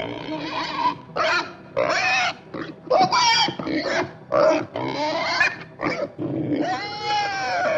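Pig grunting and squealing: a quick run of about ten separate calls, ending in a longer squeal that rises and falls.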